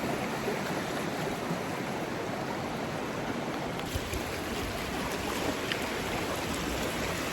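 River rapids: a steady rush of moving water, with a few small splashes.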